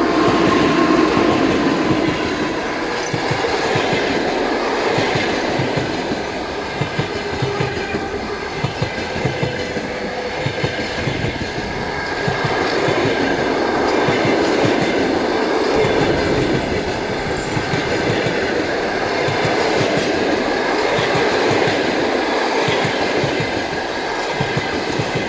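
A passenger train hauled by an EP2K diesel locomotive passing close by. The coaches roll past with a continuous rumble and the clickety-clack of wheels over rail joints.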